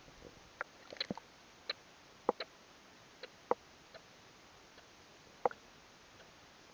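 Footsteps on the forest floor, dry leaves and twigs crackling and snapping underfoot in a string of sharp, irregular cracks.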